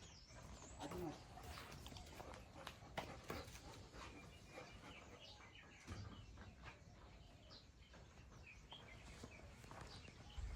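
Near silence: a faint outdoor background with scattered small clicks and a few brief faint chirps.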